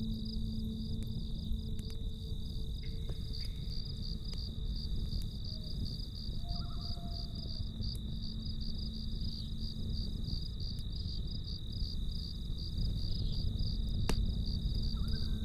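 Crickets chirping in a fast, steady pulsing trill over the low rumble of a campfire, with a sharp pop from the fire about fourteen seconds in.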